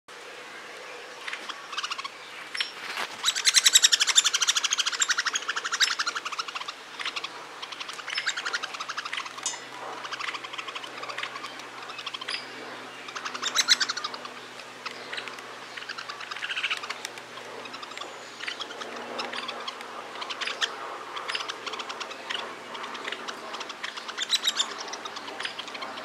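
Birds calling and chirping, with bursts of rapid chattering notes a few seconds in, again near the middle and near the end.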